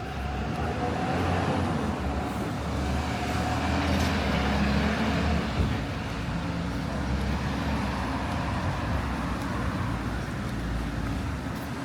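Street traffic: a motor vehicle's engine running close by, growing louder over the first second or two and then holding steady.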